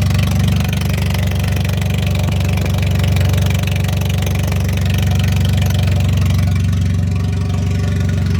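Hyundai ix35 engine idling with its exhaust removed: a loud, steady low rumble with a raspy buzz over it and no revving.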